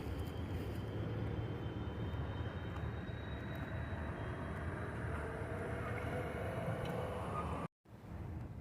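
Amtrak passenger train rolling through the grade crossing: a steady rumble of wheels on rail, with a faint whine above it. The sound cuts out abruptly for a moment near the end.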